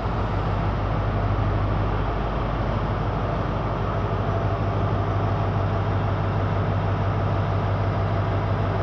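Class 43 HST power car's diesel engine idling steadily at the platform, an even low hum that holds at one level.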